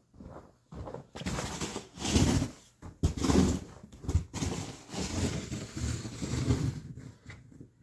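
Crunching and scraping in packed snow, in a string of noisy bursts about a second long.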